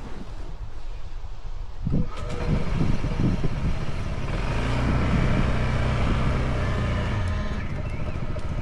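Motorcycle engine running, getting louder about two seconds in and then holding a steady note.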